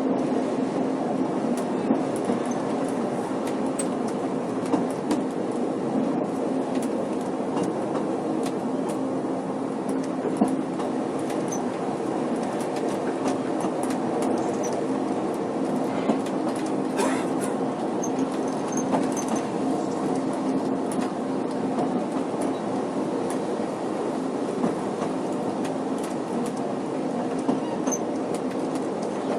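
Snowdon Mountain Railway rack-and-pinion train climbing, heard from inside the carriage: a steady running noise with a low drone, and scattered clicks and knocks from the wheels and rack.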